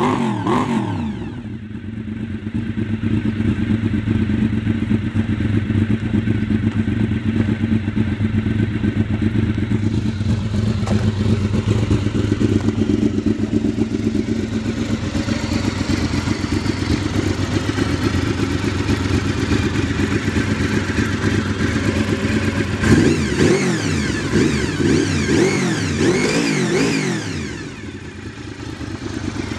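Honda VFR750's V4 engine settling from a rev to a steady idle, then revved in a run of quick throttle blips about 23 seconds in, dropping back to idle near the end.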